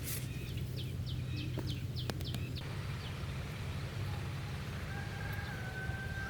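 A bird chirping in a quick run of short, high notes for about two and a half seconds, over a steady low hum. Near the end a faint, steady high tone begins.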